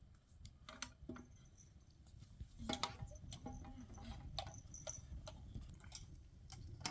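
Irregular light clicks and taps, a dozen or so scattered through, over a faint low rumble.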